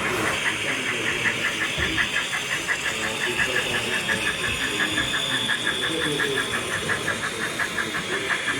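Model steam locomotive chuffing at a steady, rapid beat of about five to six chuffs a second.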